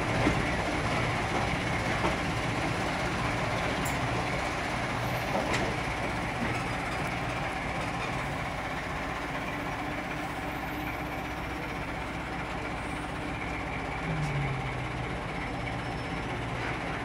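Heritage railway coach rolling slowly along the rails with a steady rumble and a few sharp clicks from the wheels in the first six seconds, as the train slows to a stop.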